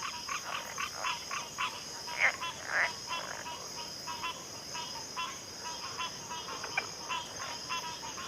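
Frog chorus: many short croaking calls repeating and overlapping, several each second, over a steady high-pitched insect trill.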